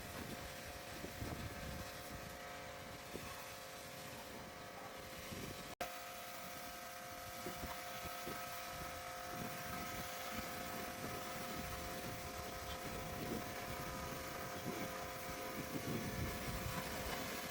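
A steady mechanical hum from a running motor, with irregular clattering and scraping of hand work over it; the sound drops out briefly about six seconds in.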